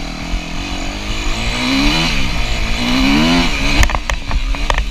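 Dirt bike engine revving, its pitch rising and falling twice, with a few sharp knocks near the end.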